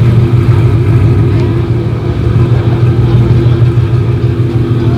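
Car engine idling loudly at a steady speed, with no revving.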